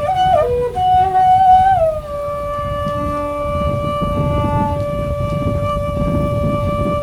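Background music: a wind instrument plays a few short stepping notes, then holds one long steady note from about two seconds in.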